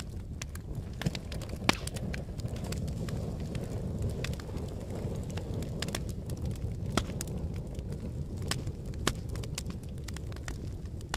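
Fire crackling: a steady low rumble of flames with sharp, irregular pops and snaps through it, the sharpest about two seconds in.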